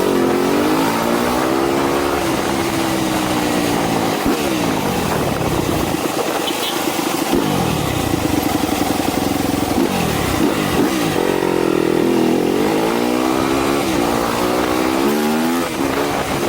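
Yamaha YZ250F supermoto's single-cylinder four-stroke engine accelerating through the gears: the pitch climbs and drops sharply at each shift, several times over, then eases off and builds again.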